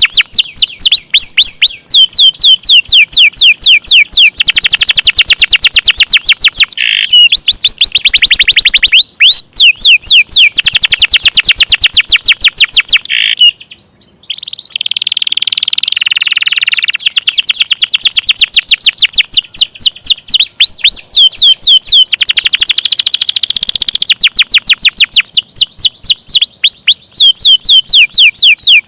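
Domestic canary singing long, fast rolls of sharp, high, descending notes repeated many times a second. The song breaks off briefly a little before halfway, then resumes.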